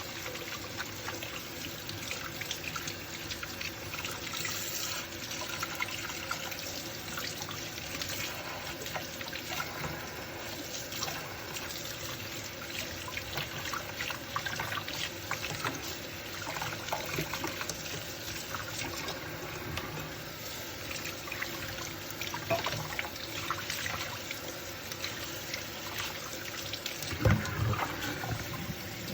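Dishes being hand-washed at a sink under running tap water, with steady water noise and small clinks of dishware throughout, and one louder knock of a dish near the end.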